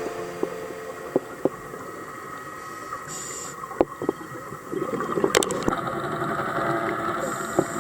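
Underwater sound picked up by a diver's camera: a steady mechanical hum with scattered sharp clicks, and short hissy bursts about three seconds in and again near the end.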